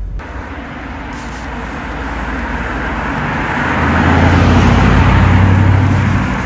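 Mercedes-Benz E430's 4.3-litre V8 running on the move with road noise, building in loudness from about two seconds in to a peak near the end, then easing off.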